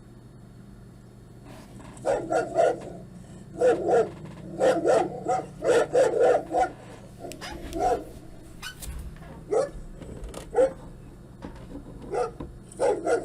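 Recorded dog barks played back through a speaker, starting about two seconds in as runs of several quick barks with short gaps between them.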